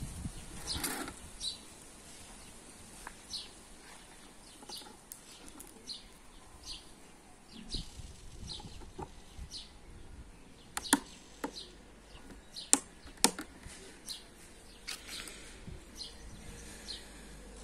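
Birds chirping, short high calls repeating every second or so, over a low outdoor background. A few sharp clicks of hard plastic being handled stand out about two-thirds of the way through, louder than the birdsong.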